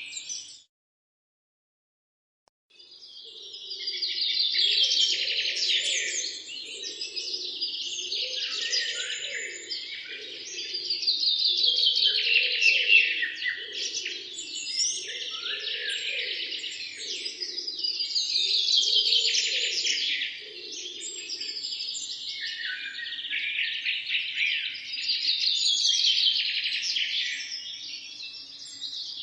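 A chorus of songbirds: many overlapping chirps, trills and songs, swelling and easing about every seven seconds. It cuts to complete silence just after the start and comes back in under three seconds in.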